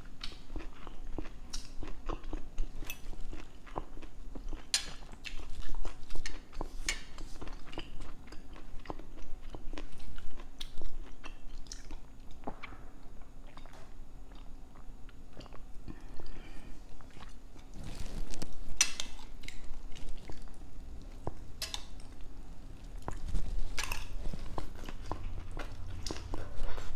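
Close-miked chewing and mouth sounds of someone eating rice, sardines and string beans, with wet smacks and bites and occasional clinks of a metal spoon and fork on a ceramic plate.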